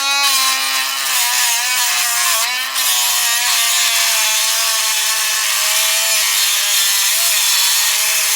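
Power tool's cut-off wheel grinding through a Master padlock's hardened steel, a steady motor whine with dense grinding, its pitch sagging slightly under load.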